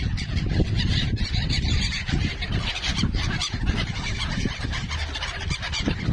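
A flock of birds calling over one another in quick, overlapping short calls while they eat scattered popcorn, over a steady low rumble.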